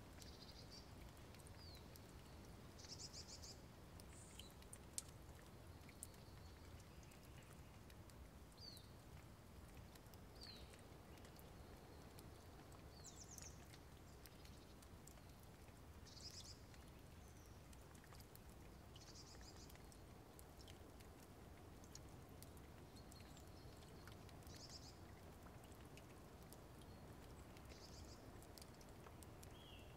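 Near silence with faint, scattered bird chirps: short high calls every few seconds over a low background hiss. Two sharp clicks about five and six seconds in.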